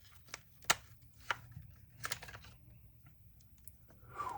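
Plastic clamshell housing of a DeWalt DCD780 cordless drill being pried apart by hand: a few sharp clicks and snaps as the halves work loose, the loudest a little under a second in, then a short falling squeak near the end.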